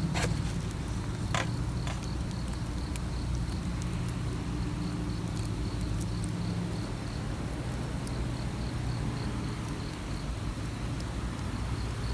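Campfire burning with a few sharp crackles and pops near the start, over a steady low hum. An insect chirps in even high pulses, about three a second, throughout.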